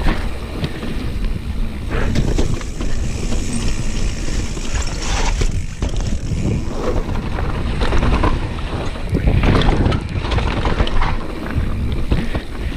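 Wind buffeting the microphone over the rumble of a bicycle's low-pressure tyres rolling down a wet, leaf-covered trail, with repeated knocks and rattles from the bike over bumps.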